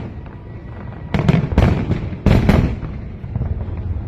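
Aerial firework shells bursting in quick clusters of sharp bangs, with a low rumble between them. One cluster comes about a second in and another at about two and a half seconds.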